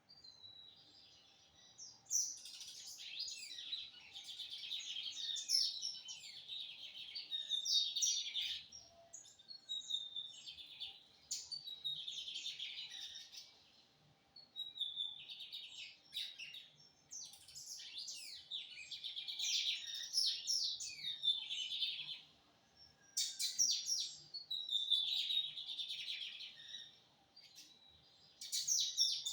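Lined seedeater (bigodinho) singing: repeated phrases of rapid, high chirps and trills, about five phrases each a few seconds long with short pauses between them.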